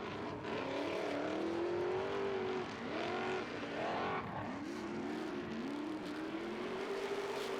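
ProStock 4x4 off-road racing truck's engine revving up and down over and over, the pitch climbing and dropping several times as the truck works through the muddy course.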